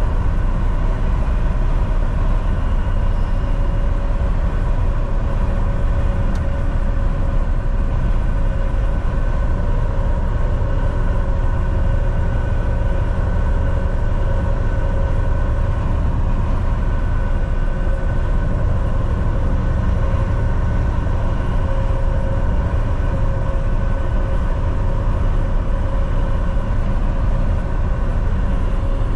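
Volvo VNL 760 semi-truck cruising at a steady highway speed: a constant low rumble of engine and tyres on the road, with a steady whine on top.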